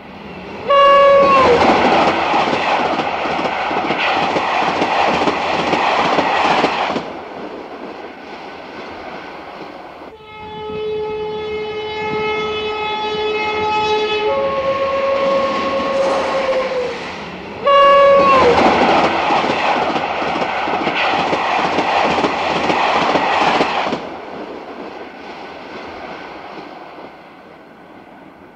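Train horn sounding with a falling pitch as a train passes, followed by a loud rattle of wheels on rail. A two-tone horn blows near the middle, low then high. The falling horn and wheel rattle come again about 18 s in, then fade away near the end.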